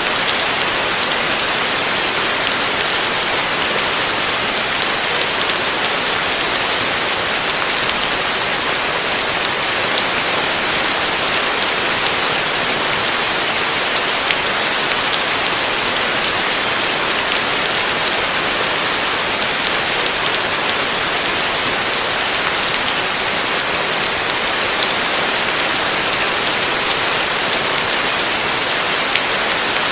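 Heavy rain falling steadily on a roof, a dense even hiss of drops.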